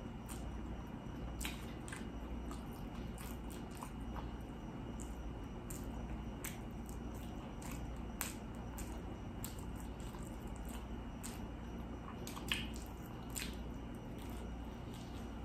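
Close-miked eating sounds: wet chewing and mouth smacking, with scattered small clicks, over a steady low hum.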